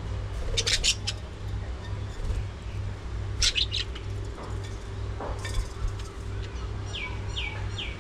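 Budgerigars chirping in short scattered bursts, with three quick falling chirps in a row near the end, over a steady low hum.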